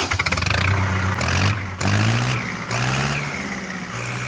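SAME 503 tractor's diesel engine running and being revved, easing off briefly twice and picking up again with a rise in pitch.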